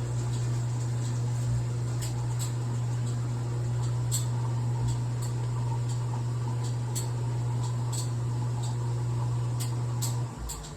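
Hobart-built 1974 KitchenAid Superba KSD-57A dishwasher running its rinse cycle: a steady motor hum with scattered light ticks. The motor cuts off near the end as the cycle finishes.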